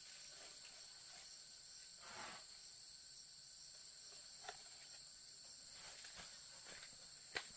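Steady high-pitched insect chorus, faint, with a soft rustle about two seconds in and two sharp clicks, one near the middle and a louder one near the end.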